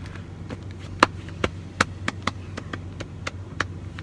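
Handling of a plastic MRE bag of rice and mashed potatoes rehydrating in boiling water: a string of irregular light clicks and taps, the loudest about a second in, over a steady low hum.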